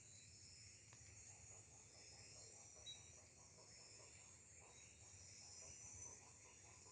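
Faint dusk forest chorus: a steady high-pitched insect drone, with a distant, unidentified animal giving quick repeated calls, which the recordist takes for monkeys.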